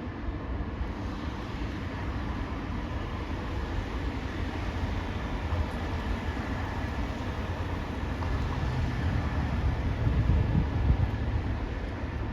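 Steady low rumble of heavy engines, swelling louder about eight to eleven seconds in, with a faint steady high tone over it.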